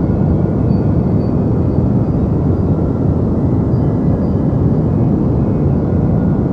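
Steady deep white noise, an even, unbroken rushing sound weighted to the low end, more rumble than hiss.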